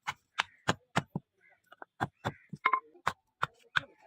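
Hand hammer blows striking in a steady rhythm, about three a second, with a brief pause near the middle.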